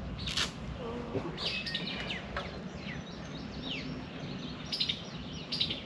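Birds chirping: short, quick calls sliding down in pitch, repeating every second or so over a steady low background rumble, with a short knock about half a second in.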